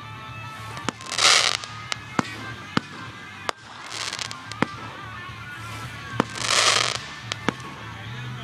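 Fireworks going off: about eight sharp bangs, with three louder bursts of crackling hiss about a second in, about four seconds in and between six and seven seconds in.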